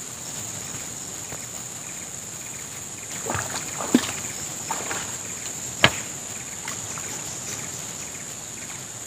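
Water splashing and sloshing in a river as a fishing net is handled in the current, over a steady flowing-water hiss and a constant high-pitched whine. A few splashes come around the middle, with two sharp knocks about two seconds apart.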